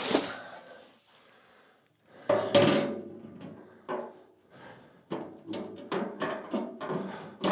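Knocks and thunks of motorcycle lift parts and packing being handled during unpacking. There is a loud thunk about two and a half seconds in, another near four seconds, then a quicker run of sharper knocks, some briefly ringing.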